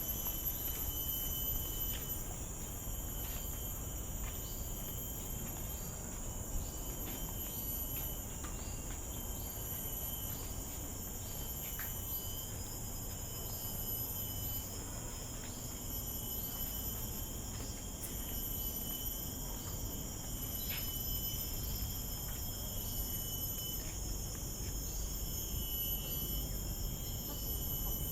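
Chorus of tropical forest insects: several steady high-pitched buzzing layers, one of them pulsing in an even rhythm, over a low rumble.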